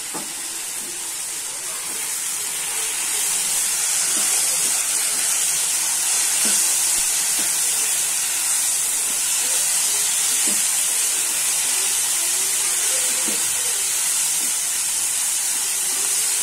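Chopped tomatoes and onions sizzling as they fry in a nonstick pan, a steady hiss that grows a little louder in the first few seconds.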